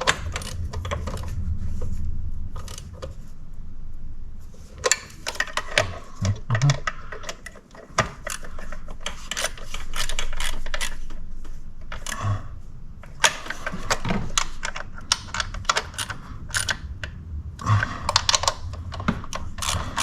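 Irregular metal clicks, clinks and rattles of hand tools and fittings being handled during work on a car engine.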